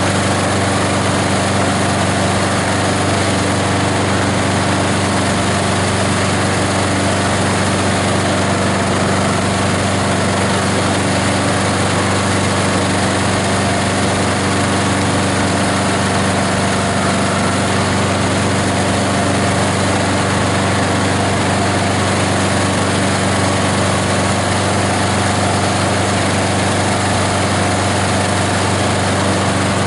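Grinder-shredder's 18 HP diesel engine running steadily at a constant speed, with a strong low hum and dense mechanical noise from the machine.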